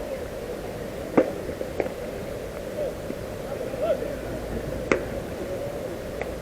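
Steady background noise with faint distant voices, broken by a few short sharp knocks; the loudest comes about a second in and another near five seconds.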